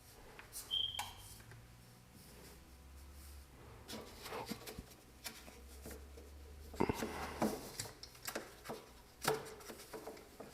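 Scattered knocks, clicks and rubbing of things being handled, with a short high beep about a second in.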